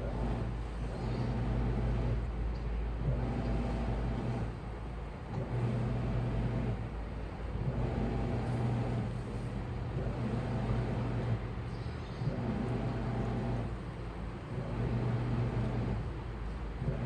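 Washing machine mid-wash: the drum motor hums in short runs of about a second and a half, pausing briefly between each, about seven times, as the drum turns back and forth through the laundry.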